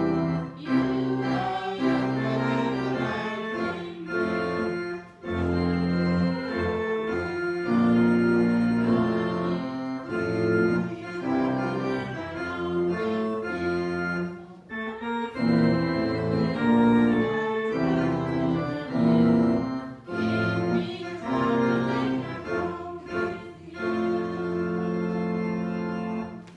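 Organ music: slow sustained chords moving in phrases, with short breaks about 5 and 15 seconds in.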